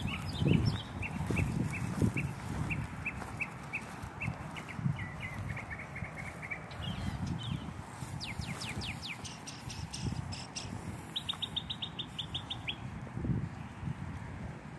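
Songbirds chirping: a short high chirp repeated about three times a second, then a few quick falling notes and a fast trill later on, over irregular low thumps from walking.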